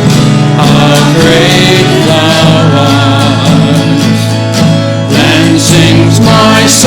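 Hymn music: a sung melody over guitar and instrumental accompaniment, steady and loud.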